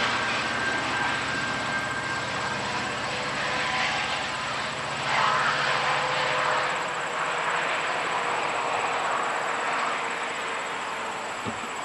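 GO Transit commuter train rolling along the rails, a steady rush of wheel-on-rail noise with a few faint high tones; a low engine hum drops away about seven seconds in.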